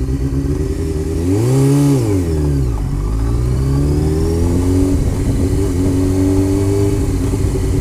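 Honda CBR sport-bike engine heard from the rider's seat: it revs up and drops back briefly, climbs in pitch again, then settles to a steady cruise, over constant wind noise on the microphone.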